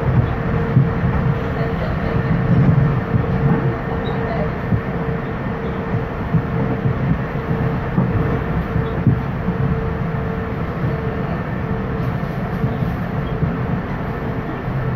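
Passenger train running along the line, heard from inside the carriage: a steady rumble of wheels on rails with a constant hum and scattered clicks.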